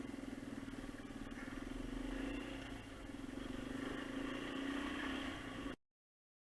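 Dirt bike engine running steadily under way, its pitch rising and falling slightly. The sound cuts off abruptly near the end.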